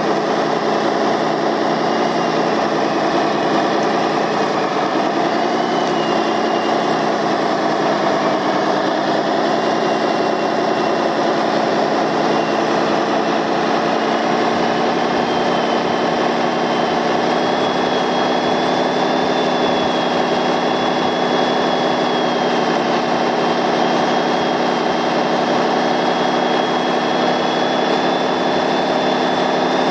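Radio-controlled heavy construction vehicle running, a steady engine drone whose pitch dips slightly a few seconds in and then holds even.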